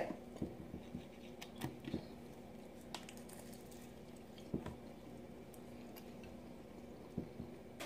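Faint chewing and wet mouth sounds of someone eating a sushi roll, with a few soft clicks scattered through, over a faint steady hum.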